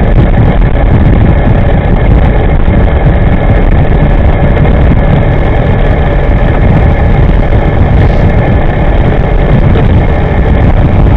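Loud, steady wind rush and road noise while riding an electric scooter at speed, with a faint steady whine from its drive running underneath.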